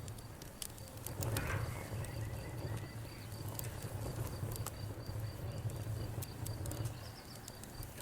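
Wood fire crackling: irregular sharp pops and snaps over a steady low rumble, with a brief hiss about a second and a half in. A high, evenly pulsing chirp runs alongside.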